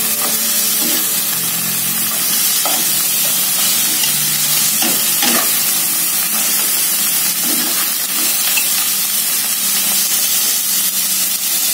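Whole lobsters frying in hot sesame oil with spice paste, a steady sizzle, while a metal spatula stirs them, scraping and knocking against the pot several times.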